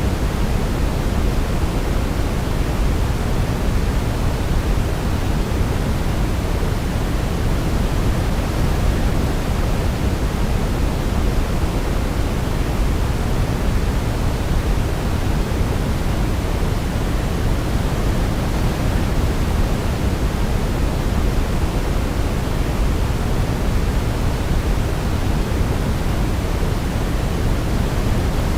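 Steady sleep noise, an even unbroken rush heavier in the low end than the top, like pink noise, with no audible melody.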